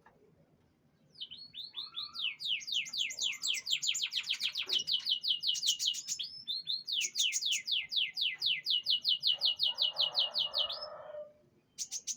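Domestic canary singing: two long phrases of rapid, evenly repeated falling notes in high trills, with a short break between them about six seconds in.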